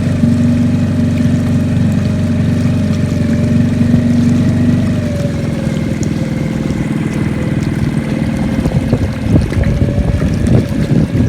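A small boat's motor running steadily at a constant pitch. About halfway through the pitch shifts slightly, and near the end the sound turns choppier and more uneven.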